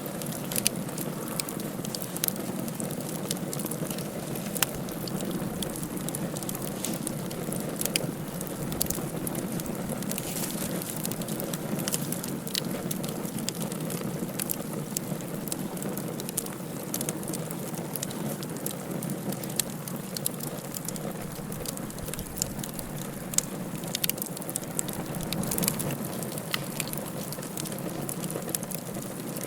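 Wood fire burning in a fireplace: a steady hiss with frequent, irregular sharp crackles and pops.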